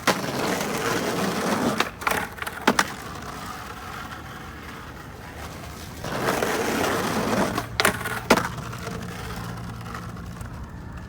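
Skateboard wheels rolling over wet pavement, each run ending in sharp wooden clacks of the board on the ledge and the landing, twice: two backside tailslide to fakie attempts.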